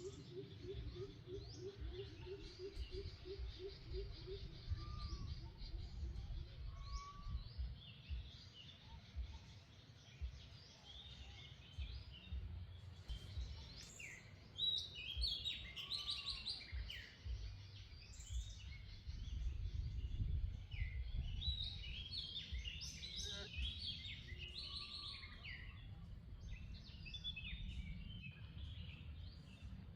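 Small birds chirping and calling, many short notes and trills, busiest in the second half, over a steady low rumble. In the first few seconds a low, rapid pulsing call repeats about four or five times a second and fades out.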